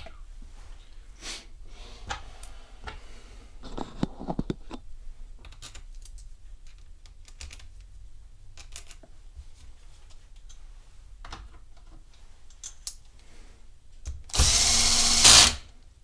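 Faint clicks and handling of parts, then near the end a power drill/driver runs for about a second and a half, driving in a screw to fasten the pressure washer's back housing.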